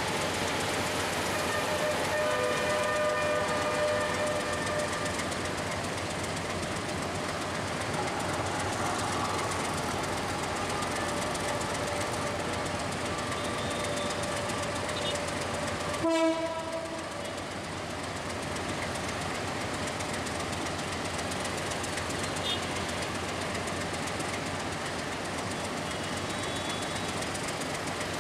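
Diesel locomotive hauling a passenger train slowly along curved station tracks, giving a steady rumble of engine and rail noise. About halfway through comes one short horn toot, the loudest sound here.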